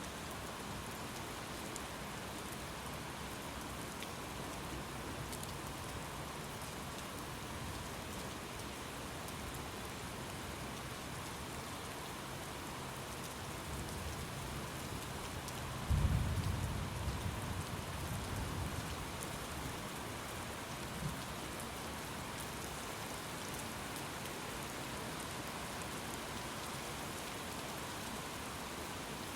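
Steady rain, with a rumble of thunder swelling about halfway through into a sharp low crack that rolls away over a few seconds.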